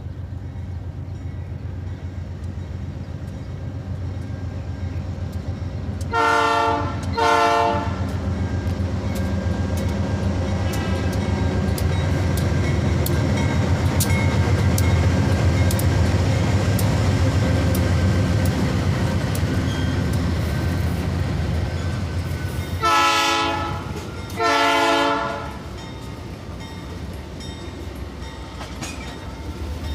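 Diesel freight locomotive sounding its horn in two pairs of blasts: two short ones about six seconds in, and two longer ones about twenty-three seconds in. Under them the engine and rolling wagons give a steady rumble with some clickety-clack, loudest around the middle as the train passes.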